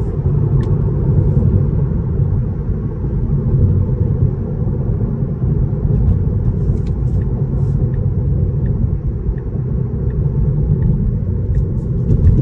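Steady low road and tyre rumble inside the cabin of a moving Tesla Model 3, with faint regular ticks about every three quarters of a second.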